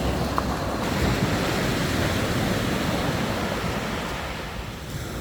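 Sea surf breaking and washing up the beach, with wind buffeting the microphone; the wash eases off a little near the end.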